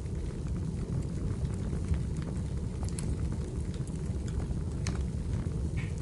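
Wood fire burning in a fireplace: a steady low rumble with scattered crackles and pops of burning firewood, the sharpest about three and five seconds in, and a brief hiss near the end.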